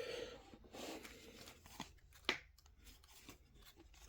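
Faint rustling and rubbing of trading cards and their opened pack wrapper being handled, with a single sharp tick about two seconds in.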